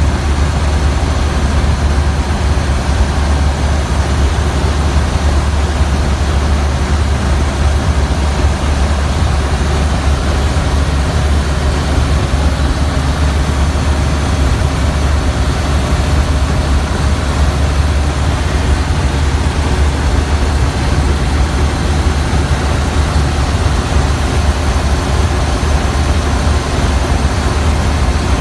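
1929 Ford Model A truck's four-cylinder engine, fitted with a Simmons Super Power head and twin Zenith updraft carburettors, running steadily under way with a low drone.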